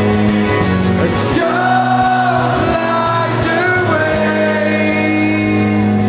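Live rock band playing a song, with a sung vocal line over long held chords and a steady bass.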